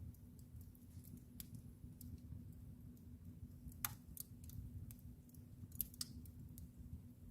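Wood fire crackling in a fireplace: faint scattered pops and snaps, two of them louder about four and six seconds in, over a low steady rumble.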